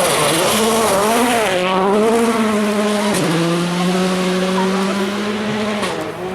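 Rally car engine at full effort on a stage: the engine note rises and falls for the first few seconds, drops about three seconds in, then holds a steady pitch.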